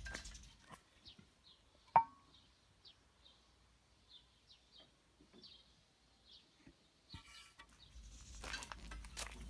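A bird chirping repeatedly in short high notes over a quiet background, with one sharp clink about two seconds in. Clattering handling noise starts again near the end.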